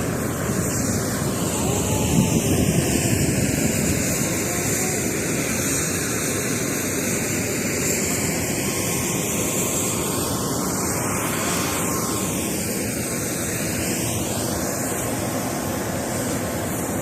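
Steady noise of an airliner's engines and rushing air as the plane comes in to land.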